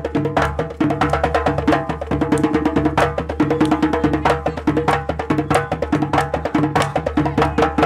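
Malian traditional drumming: djembes and other hand drums played together in a fast, dense rhythm of sharp strokes.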